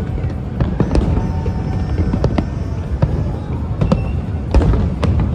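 Fireworks display: a rapid series of sharp bangs and crackling bursts, several a second at times, over a continuous low rumble.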